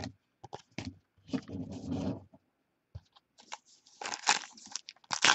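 A trading-card pack wrapper crinkling and tearing. Scattered light clicks come first, and the crackling turns dense about four seconds in.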